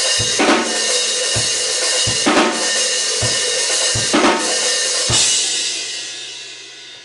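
Acoustic drum kit played as a slow beat, with bass drum and snare hits under washing cymbals and a snare crack roughly every two seconds. The playing stops about five seconds in, and the cymbals ring out and fade away.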